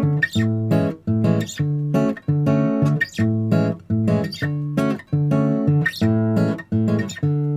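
Background music of acoustic guitar strumming chords in a steady, even rhythm.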